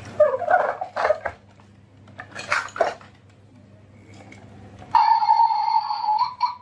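Glass marbles clattering and clicking down a wooden marble run track, in a few quick bursts, then from about five seconds in a loud, steady electronic tone that cuts off near the end.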